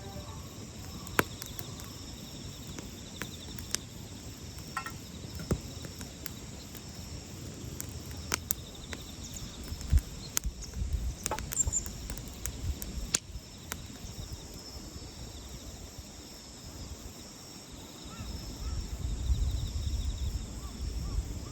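Wood campfire crackling, with sharp irregular pops every second or so. A low rumble rises near the end.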